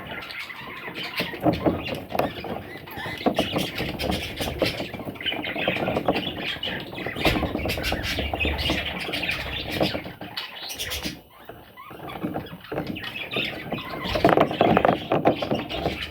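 Budgerigars chattering and squawking, a busy run of short calls and clicks that dips briefly about two-thirds of the way through and grows louder near the end.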